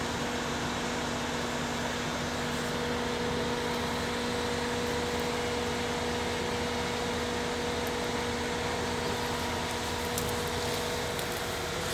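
Running machinery: a steady mechanical drone with a constant hum, holding the same pitch and level throughout.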